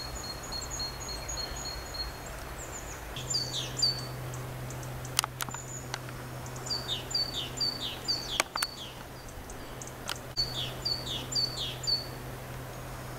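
Small birds chirping: a fast run of short high notes, then several groups of three to five quick falling chirps. A few sharp clicks are mixed in.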